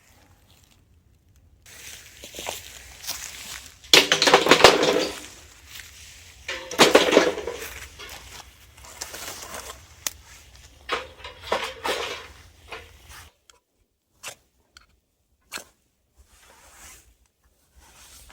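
A campfire being lit: a run of loud rasping, crackling scrapes and rustles, the loudest about four and seven seconds in. Near the end only a few short sharp crackles remain.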